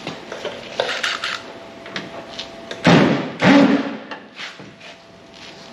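Knocks and clicks of tools and metal parts being handled, with two louder bangs in quick succession about three seconds in.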